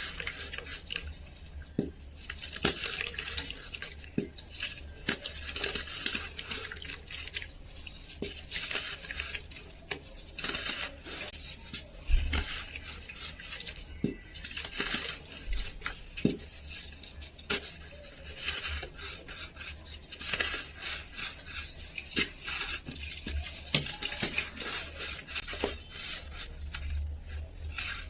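Dry, crumbly material being crushed and scraped in a dish, with continual crackling and scattered light knocks.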